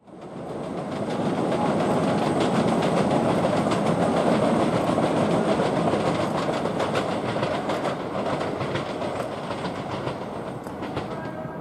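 Melbourne Metro Siemens suburban electric train running across the rail yard. The wheels rumble and click steadily over rail joints and pointwork. The sound builds over the first couple of seconds, then slowly eases as the train moves on.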